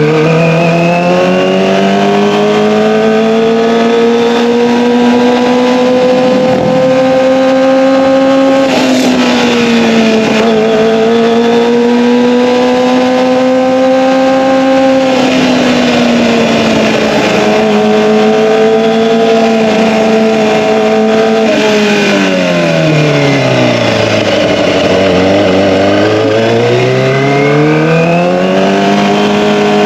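Kawasaki ZX-25R's 249 cc inline-four running through an Akrapovic Evolution exhaust while being ridden. The engine pitch climbs at first and holds high with two brief dips. It falls steeply about three-quarters of the way through, then climbs again near the end.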